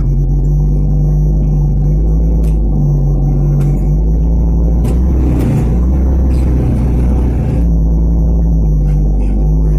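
Mitsubishi Canter light truck's engine running with a steady low drone. A few sharp knocks and rattles come through.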